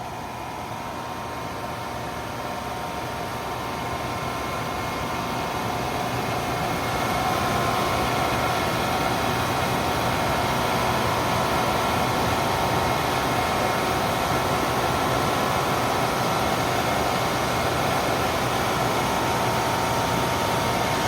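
Car wash air dryer blowers running with a steady rushing whoosh that builds up over the first several seconds and then holds even.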